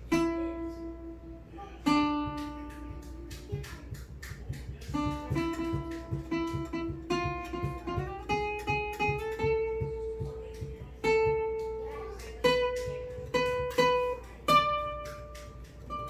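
Guitar being strummed and plucked: held notes ringing over quick repeated strokes, with a few slides in pitch between notes and sharper struck notes near the start, about two-thirds of the way through, and near the end.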